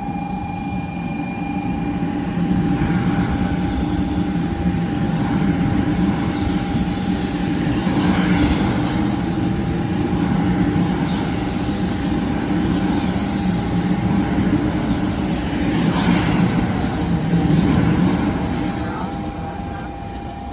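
Shinkansen bullet train running as it pulls out of a station, heard from inside the passenger car: a steady rumble and hiss with a constant high whine. It grows louder over the first few seconds, then eases off near the end.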